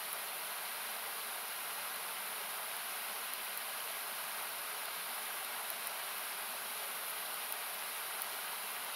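Steady rush of a river, thinned by equalisation into an even hiss, with a few faint crackles from a wood campfire.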